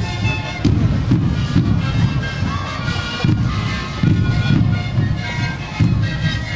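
A sikuri ensemble playing: many siku panpipes blown together in a reedy, held chord, over regular beats of large bombo bass drums.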